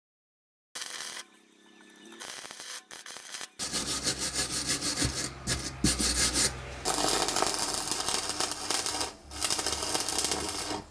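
Stick welding: the electrode arc crackling and sizzling in a dense, steady stream as the steel top base of a hydraulic jack stand is welded, broken briefly twice.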